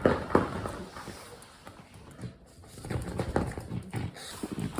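A small dog, a Shih Tzu, making short irregular noises close to the microphone, loudest right at the start and again in a cluster about three seconds in.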